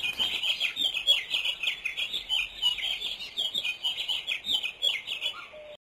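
Small birds chirping: many short, rapid, overlapping high notes, cutting off abruptly near the end.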